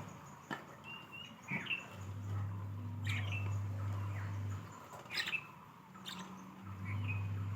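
Budgerigars giving short, scattered chirps, with a few sharp clicks among them, over a low hum that comes and goes.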